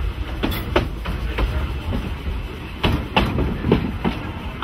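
Narrow-gauge train running on 762 mm track: a steady low rumble with irregular clicks and knocks from the wheels over the rail joints.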